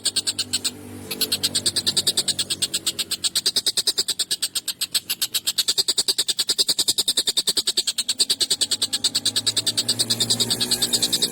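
Tengkek buto (a kingfisher) giving a fast, evenly repeated rattle of harsh, sharp notes, with a brief pause just under a second in.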